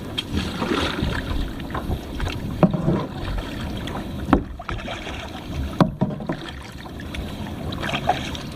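Kayak paddle strokes in the water: steady splashing and sloshing, with a sharper stroke every second and a half to two seconds.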